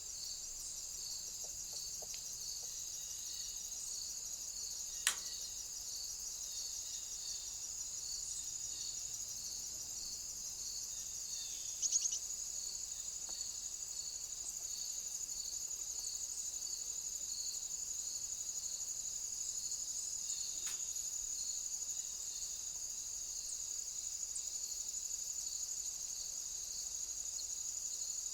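Chorus of crickets or other singing insects: a continuous high trill with a slower, evenly pulsed chirp beneath it. A sharp click comes about five seconds in and another near the end, and a short, louder rattle about twelve seconds in.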